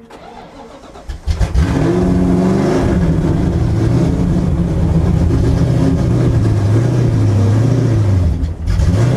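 Loud Ford Racing 302 V8 of a Fox Body Mustang race car restarting about a second in after a stall, then running at idle with its pitch wavering up and down under light throttle.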